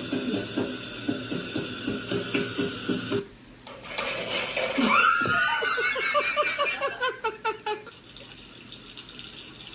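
Background music with a drum beat cuts off about three seconds in. A short rising voice and a quick run of laughter follow, then water running from a tap near the end.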